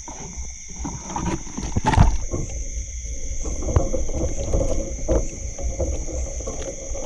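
Steady high-pitched chorus of crickets, with irregular close splashing and knocking beneath it.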